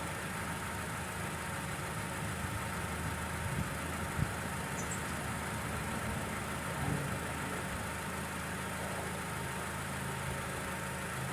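A steady low mechanical hum, like an engine idling, with a few light knocks about four seconds in and again near seven seconds.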